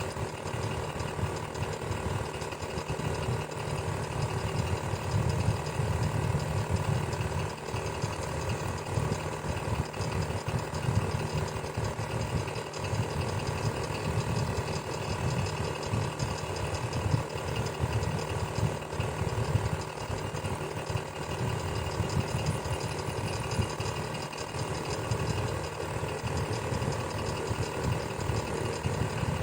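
Electric fan running steadily: a continuous whir with a low motor hum.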